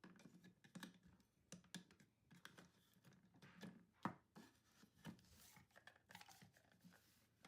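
Faint clicks, taps and scrapes of hands handling a plastic Play-Doh playset's pieces, with the sharpest click about four seconds in.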